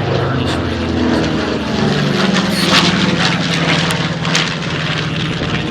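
Propeller warbird's piston engine droning as it flies past, its pitch sinking slightly about halfway through.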